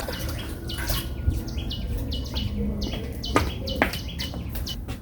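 A bird chirping over and over in short calls that each drop in pitch, about two or three a second. Two sharp knocks come a little past the middle.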